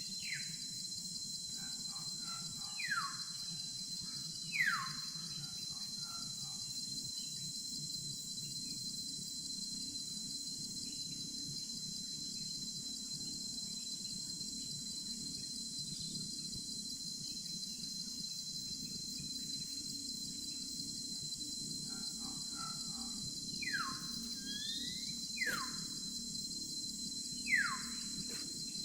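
Steady chorus of crickets and other insects with a constant high tone, over which a bird gives short, sharp whistled calls that sweep downward, three near the start and three more near the end.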